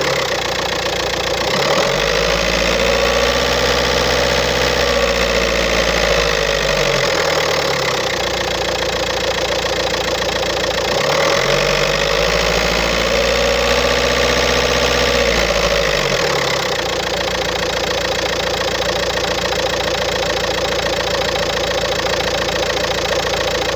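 2007 VW Golf 1.9 TDI diesel (BLS) engine with a rattling, defective dual-mass flywheel, revved up and back down twice and then settling to a steady idle for the second half.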